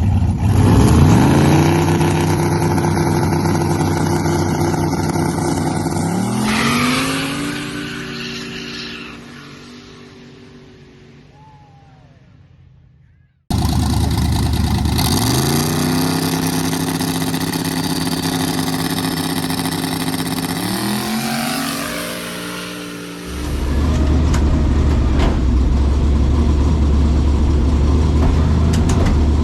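Twin-turbo small-block Ford V8 in a drag car launching: engine pitch climbs quickly then holds, shifts up once about six seconds in and fades off into the distance. After a cut, a second launch of the same kind shifts up about seven seconds later, then a loud steady low rumble near the end.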